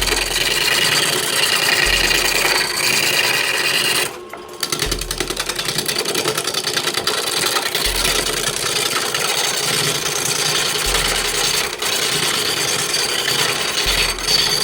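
A turning tool cutting into wood spinning on a wood lathe: a continuous rough, rasping scrape with fine rapid chatter, broken briefly about four seconds in as the tool is lifted from the wood.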